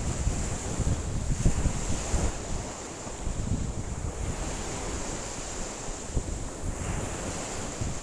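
Rough lake waves washing onto the shore in strong wind, with gusts buffeting the microphone. The rush of water swells twice, about a second in and again near the end.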